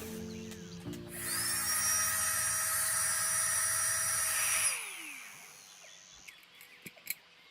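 A small motor whines at high pitch for about three and a half seconds, rising in pitch as it spins up and falling as it winds down. Music plays briefly before it.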